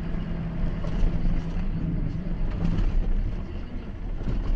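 Car engine and road noise as picked up by a dash camera, a steady low hum with a few short knocks over it.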